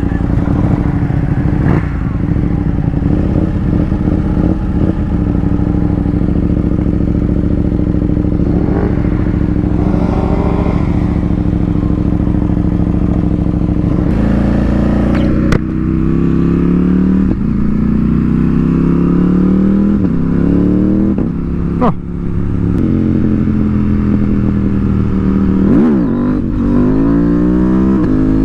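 Twin-cylinder sport motorcycle running on the road, first at a steady pitch. From about halfway it accelerates repeatedly, the engine pitch climbing and then dropping at each gear change, with a couple of sharp clicks and steady wind noise.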